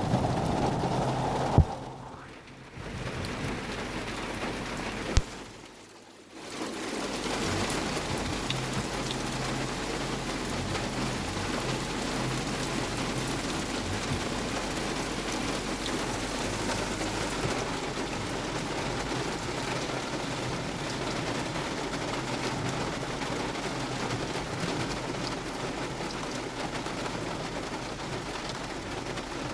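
Very heavy rain pouring down in a thunderstorm, a steady dense hiss of rain hitting surfaces. Two sharp clicks come in the first few seconds, each followed by a brief dip in the level, and then the downpour runs on evenly.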